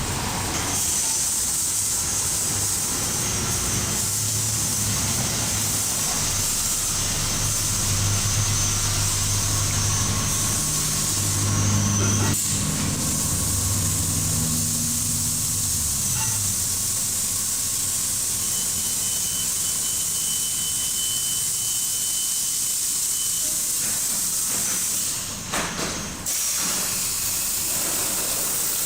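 Belanger FreeStyler in-bay automatic car wash spraying: a steady hiss of water jets, with a low hum underneath that fades out about sixteen seconds in.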